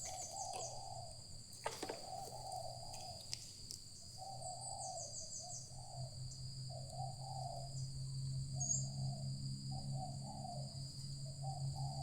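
Spotted dove (tekukur) cooing in repeated low phrases, one after another, over a steady high-pitched whine. A few quick high chirp runs come about half a second before the start and again around four and a half seconds in.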